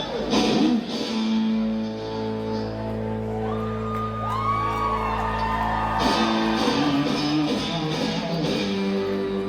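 Live band music played loud through a venue PA: an instrumental passage with guitar over long held low chords. Around the middle, a few notes slide in pitch before the texture fills out again.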